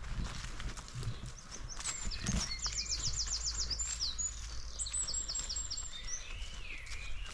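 Small songbird singing a fast, high trill about two and a half seconds in, then a shorter run of high notes near five seconds, over scattered footsteps on the forest floor.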